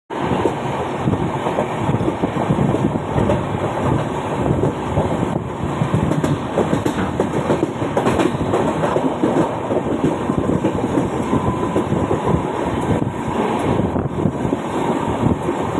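Mumbai suburban local train running on the track, a loud, steady rail noise without let-up.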